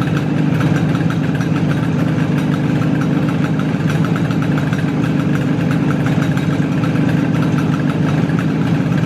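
IZh Jupiter two-stroke twin-cylinder motorcycle engine idling steadily, both cylinders firing evenly but knocking. The knock comes from piston slap: the pistons sit in cylinders bored with a very loose 0.2 mm clearance.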